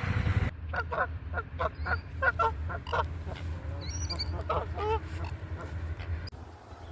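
Canada geese calling: a quick run of about nine short honks starting about half a second in, then a few more honks around the middle.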